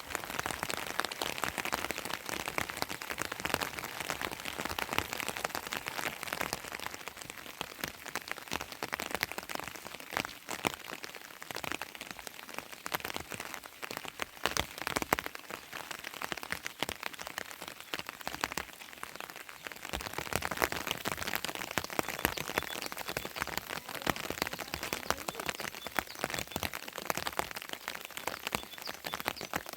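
Heavy rain falling, a dense spray of drop hits that eases a little in the middle and picks up again about two-thirds of the way through.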